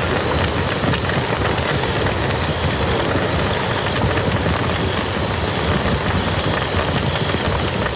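Wood fire crackling with small scattered pops over the steady rush of a flowing river.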